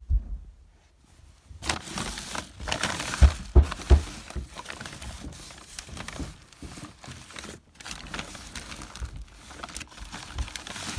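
Rustling and crinkling of old cloth and bags being handled and rummaged through, with a few dull thumps about three to four seconds in.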